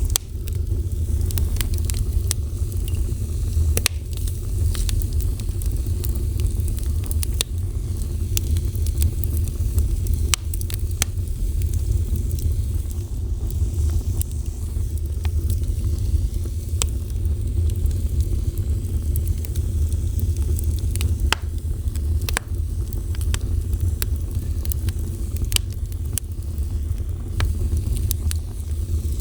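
Fire burning, with a steady low rumble under frequent sharp crackles and pops scattered irregularly through it.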